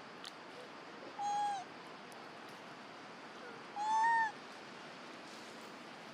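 Baby monkey giving two short coo calls about two and a half seconds apart, each a clear tone that rises a little and falls.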